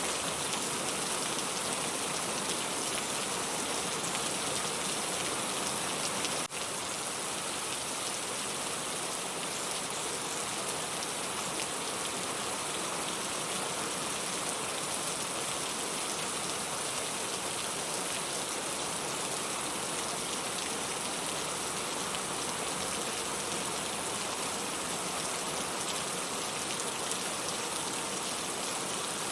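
Steady rain falling as an even, unbroken hiss that is strongest in the high end. There is a brief click and a momentary drop in level about six and a half seconds in.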